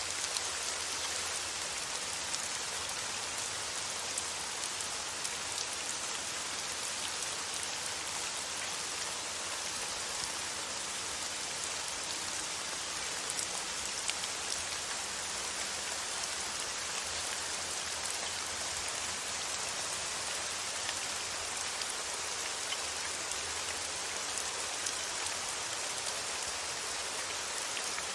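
Steady rain falling on a surface, an even patter with a few slightly louder drops now and then.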